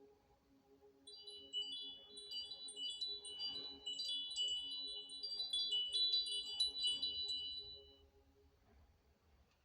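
Wind chimes tinkling in many overlapping high, bright notes, typical of a magical sparkle effect. They start about a second in and fade out near the end.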